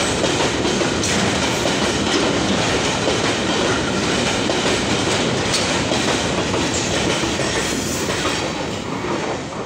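Freight train of covered goods wagons passing close by, its wheels running on the rails in a steady, loud noise. The noise starts to fall away near the end as the brake van, the last vehicle, goes past.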